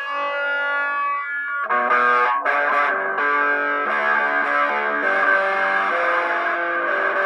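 Guitar music played through effects with some distortion: held notes ring for about the first second and a half, then a busier passage of shorter notes follows.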